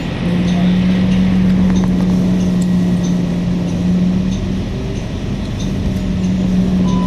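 Cabin of a 2008 Nova Bus LFS diesel-electric hybrid city bus on the move: a steady low drivetrain drone over road rumble, the drone easing off about four seconds in and coming back near the end. A short electronic beep sounds right at the end.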